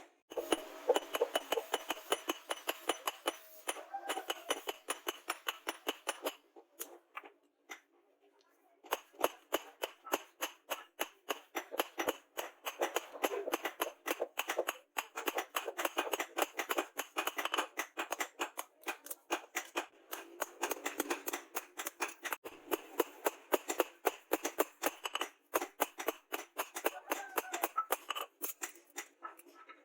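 Hammer striking the steel knife blade in quick, even blows, several a second, each with a short ring, with a pause of about two seconds partway through.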